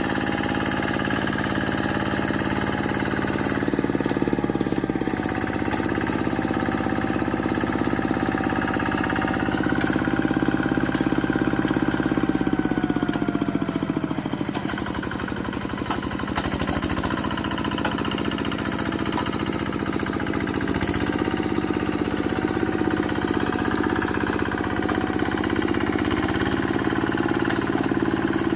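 Quick G1000 walk-behind hand tractor's engine running hard while working through brush; its pitch sags gradually from about a third of the way in, bottoming out near the middle under the load, then picks back up, with scattered sharp ticks over it.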